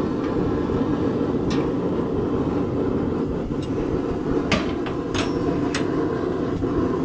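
Steady low roar of a running forge, with a few short sharp metallic clicks from the hook and tools being handled.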